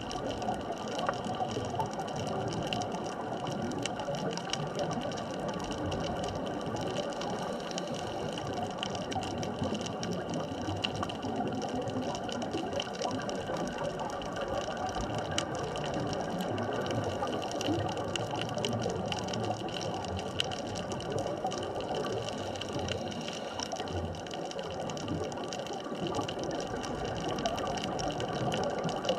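Underwater ambient sound on a deep sunken-bridge artificial reef: a steady wash of noise under several constant tones, with a fine continuous crackle of tiny clicks.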